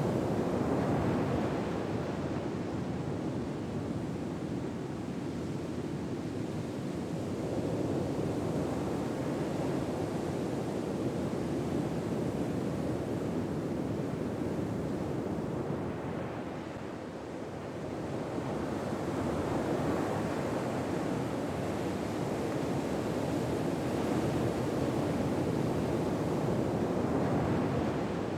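Ocean waves washing ashore in a slow, even surge, swelling and easing every several seconds.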